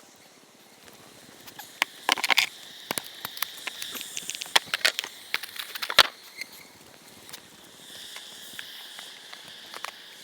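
Hand-handling of wooden beehive parts, a scattered run of clicks and knocks that is busiest in the middle. Behind it a high, steady insect buzz rises and falls.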